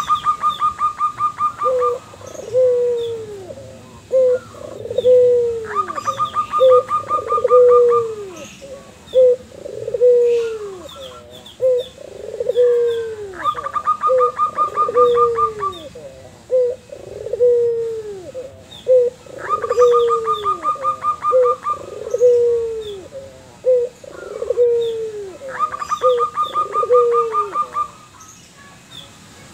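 White ringneck dove (puter) and zebra dove (perkutut) calling back and forth: five short bursts of rapid, evenly pulsed notes, about six seconds apart, over a steady run of lower, falling coos.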